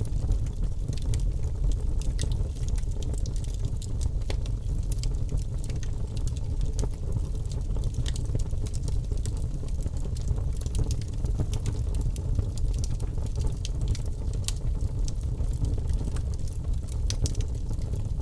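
Wood fire crackling in a fireplace: irregular sharp pops and snaps scattered over a steady low rumble of the burning.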